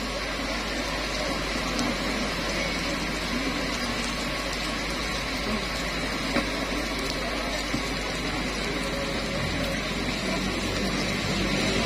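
Heavy rain pouring down in a steady hiss, with a few faint ticks of drops.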